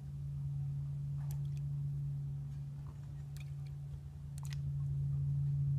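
A steady low hum, with a few faint clicks about one, three and four and a half seconds in.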